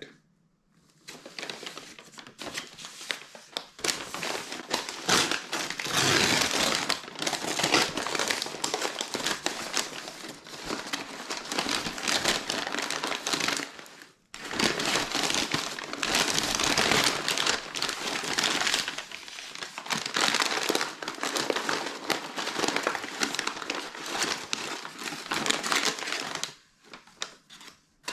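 Paper fast-food packaging crinkling and rustling as it is handled and opened, nearly continuous, with a short break about halfway through.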